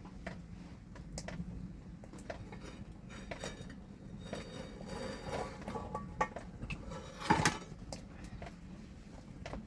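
Cooking pots and utensils clinking and knocking against each other, with one louder clatter about seven seconds in.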